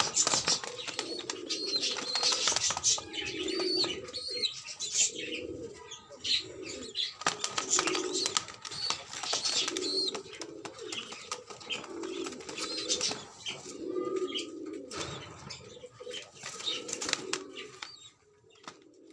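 Karbalai pigeons cooing, one low cooing phrase after another about once a second, with high thin chirps and a few wing flaps over the top.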